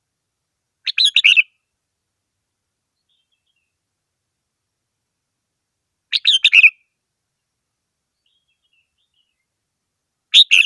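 Red-whiskered bulbul singing: three short phrases of several quick notes each, about five seconds apart, with silence between.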